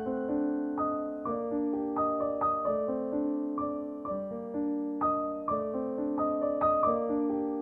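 Soft background piano music: gentle, evenly paced notes with sustained chords.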